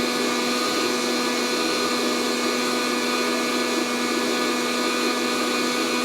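Fresh Roast SR 800 hot-air coffee roaster running mid-roast: its fan blows a steady rush of hot air through the tumbling beans, over a constant motor hum.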